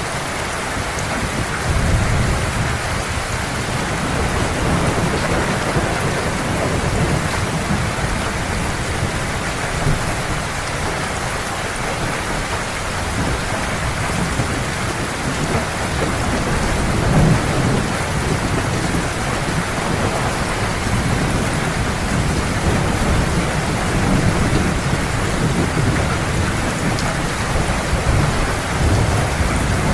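Heavy rain falling steadily, with low rolling thunder rumbling underneath that swells several times, most strongly about two seconds in, around the middle and near the end.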